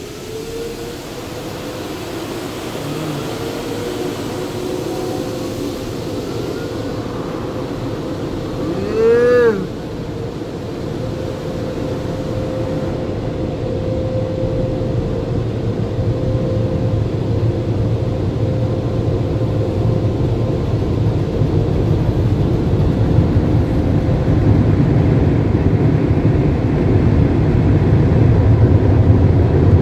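Automatic brush car wash machinery running: a steady rumble and rush with a constant hum, growing louder toward the end. About nine seconds in there is one short squeal that rises and falls in pitch.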